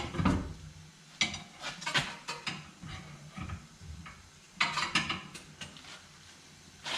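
Metal tools and a steel wheel clanking and scraping in a series of separate knocks during hand tire dismounting with tire irons.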